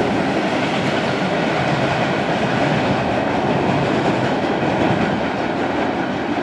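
Empty coil steel freight cars rolling away on the rails: a steady rolling noise that fades slowly as the end of the train recedes.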